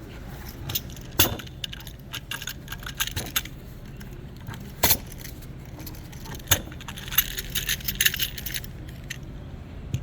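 Irregular metallic clicking and rattling from a bad bearing, over a steady low hum. Scattered loud clicks and a run of rattling come near the end.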